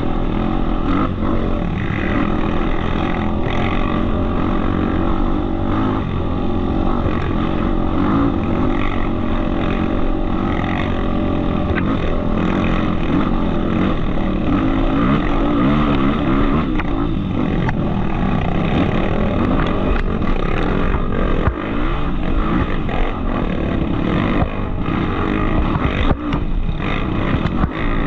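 Off-road trail motorcycle engine running, its pitch rising and falling with the throttle.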